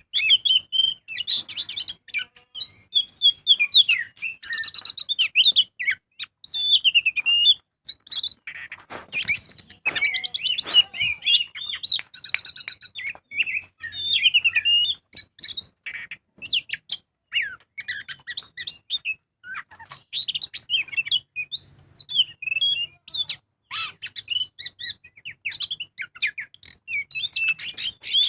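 Oriental magpie-robin (kacer) singing a long, varied song of loud whistles, quick trills and slurred notes in short phrases with brief pauses, with a few harsh rasping notes about nine to eleven seconds in.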